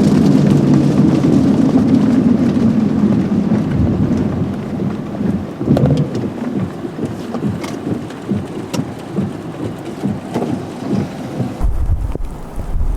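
Vehicle road noise dying away as the car slows and pulls over. It gives way to an irregular patter of rain and small knocks, and a deep low rumble comes in near the end.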